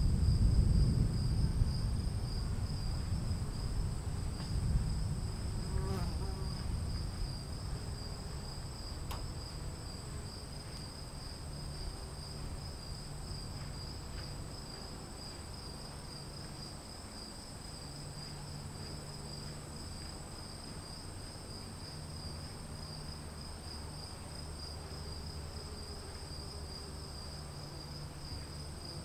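Crickets keep up a steady high trill while a low rumble of thunder rolls on and dies away over the first ten seconds or so.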